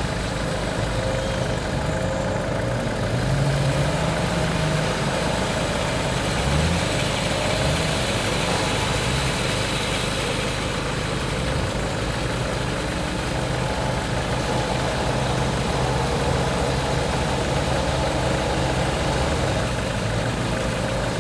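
Off-road 4x4's engine running at low revs, its pitch rising and falling a few times in the first half, then holding steady.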